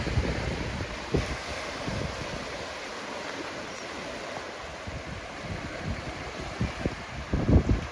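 Sea waves washing on a beach with a steady hiss of surf, and wind buffeting the microphone in low gusts, heaviest at the start and again near the end.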